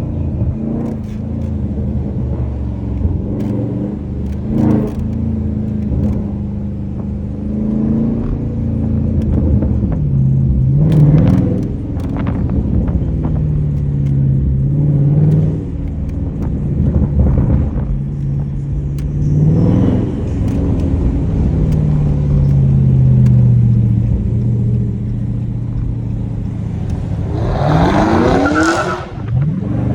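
Car engine running and being revved while driving, its pitch rising and falling repeatedly, with two hard accelerations near the end where the note climbs steeply.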